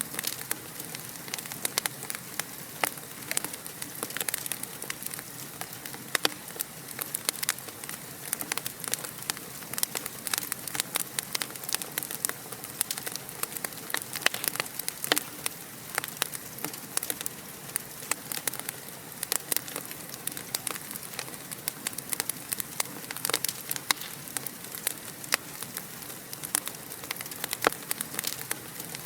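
Wood fire crackling in a fireplace: dense, irregular snaps and pops over a steady hiss.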